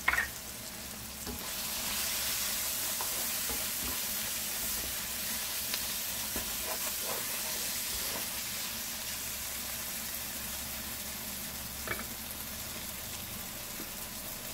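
Curry paste of onion, garlic, tomato and spices frying in hot oil in a nonstick pan while being stirred with a wooden spoon: a steady sizzle that rises about two seconds in and slowly eases off.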